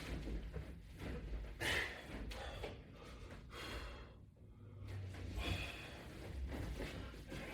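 A man breathing hard while doing abdominal crunches, with a sharp exhale about every three seconds as he works through the repetitions.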